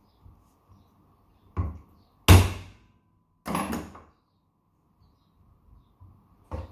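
Four hard knocks, the second the loudest: a screwdriver struck against a Samsung split AC indoor fan motor to drive its ball bearing into place on the shaft, in place of a hammer.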